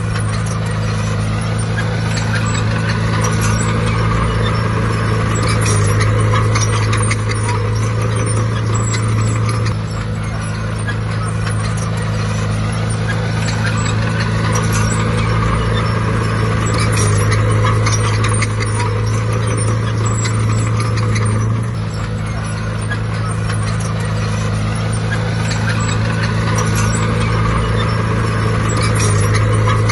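Bulldozer's diesel engine running hard and steady, swelling and easing as it pushes soil, with the clank and rattle of its steel tracks.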